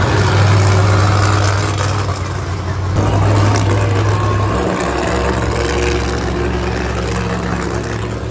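Monster truck engines running loud and steady, the engine note dropping about four and a half seconds in.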